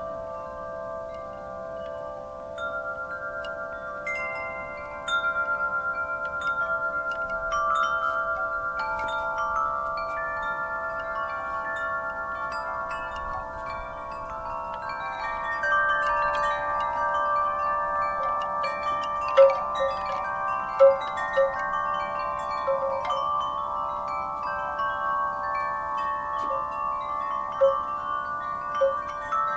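Wind chimes ringing as the breeze knocks them, with many long-ringing tones overlapping, and a few sharper, louder strikes about two-thirds of the way through.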